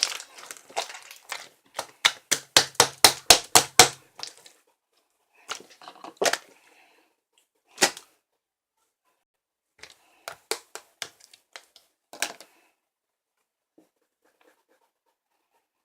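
A quick run of sharp clicks or taps, about four to five a second, between about two and four seconds in, then scattered single clicks in small clusters, in a small room.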